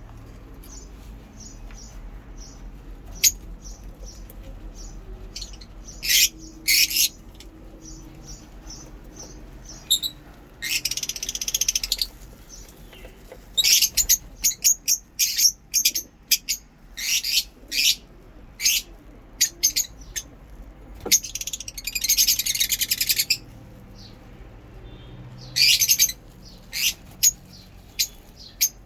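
Lovebirds chirping: a run of faint, quick, high chirps, then louder chirps in clusters, with two longer bursts of harsh chattering lasting a second or two, about a third and three quarters of the way through.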